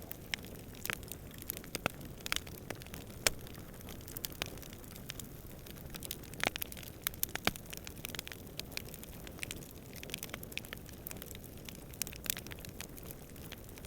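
Campfire burning with irregular sharp crackles and pops over a steady low rumble of flame and distant wind.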